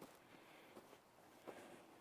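Faint footsteps crunching through snow at walking pace, about one step every three-quarters of a second.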